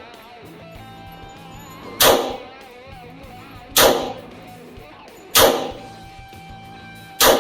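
Hi-Point .45 ACP semi-automatic pistol (Model JHP) firing four single shots, spaced evenly about one every 1.7 seconds, over background guitar music.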